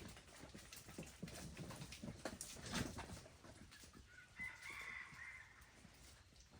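Faint scattered knocks and rustling of farm animals moving about, with one drawn-out, high-pitched animal call lasting a little over a second, about four and a half seconds in.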